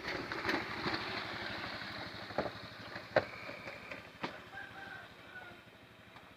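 Argo Bromo Anggrek express train running away from the crossing, its rumble dying down, with a few sharp clacks of wheels over rail joints in the middle of the stretch.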